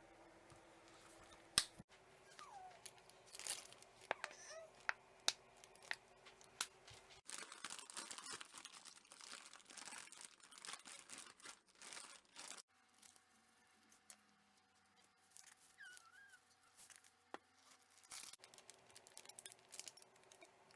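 Kitchen food-prep handling sounds: a series of sharp knocks and clicks, then about five seconds of steady rustling, then quieter scattered handling noises.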